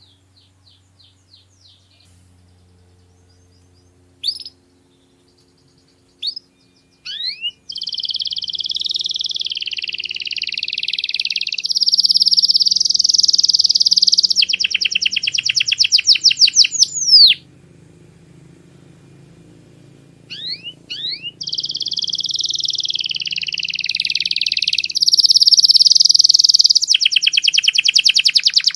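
Domestic canary singing: a few short chirps and rising sweeps, then two long phrases of fast rolling trills with a short break between them.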